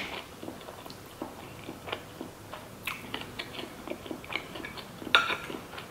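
Close-up chewing of sushi with the mouth closed: soft, irregular wet mouth sounds and small crunches, with one louder click about five seconds in.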